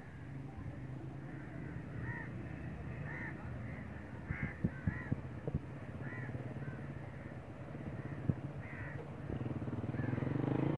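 Birds calling: a series of short calls, irregularly spaced, over a steady low hum.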